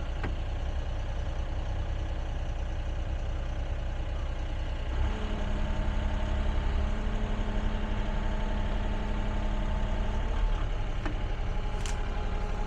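Excavator's diesel engine running steadily. About five seconds in, a steady higher tone joins it for about five seconds, and a few sharp clicks come near the end.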